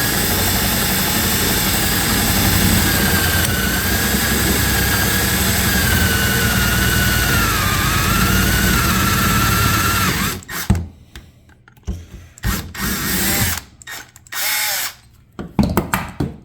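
Power drill with a 3/8-inch bit boring out a metal suspension A-arm, its motor whining steadily with the pitch sagging and wavering under load. It stops suddenly about ten seconds in, followed by several short bursts of running.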